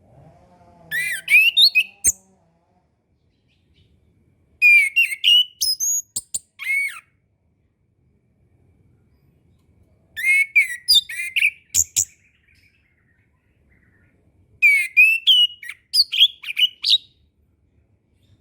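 Orange-headed thrush (anis kembang) singing: four short phrases of quick, varied whistled notes with sharp clicks, separated by pauses of a few seconds.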